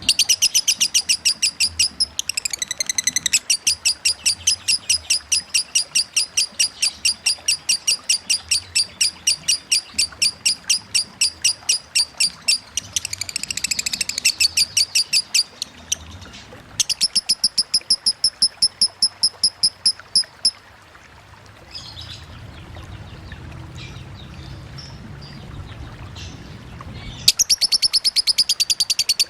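Lovebird singing its long 'konslet' song: runs of rapid, evenly repeated high chirps, about five a second, that break off twice. In the longer break a low rush of running water is heard.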